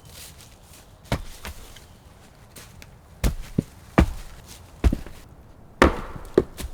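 A series of six sharp knocks, irregularly spaced, most under a second apart after a pause near the start.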